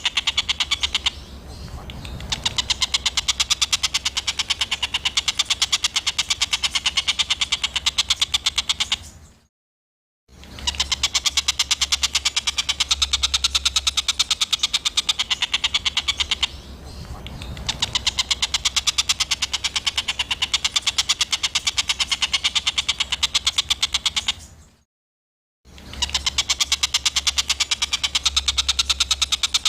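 Small songbird's harsh, rapid-fire rattling call ('tembakan kasar'), a dense run of sharp notes many per second over a low hum. It stops dead twice, about ten and twenty-five seconds in, and the same stretch starts again after each gap, as in a looped recording.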